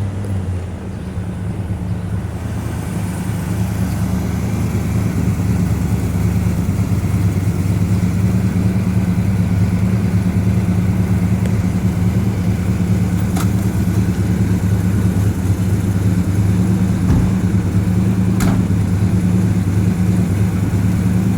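1970 Pontiac GTO's freshly rebuilt V8 running while the car drives, a deep steady drone that builds over the first few seconds and then holds level. Two faint clicks in the second half.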